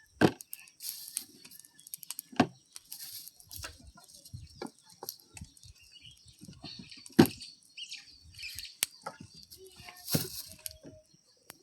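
Chickens clucking, with flapping wings among scattered sharp knocks and rustles.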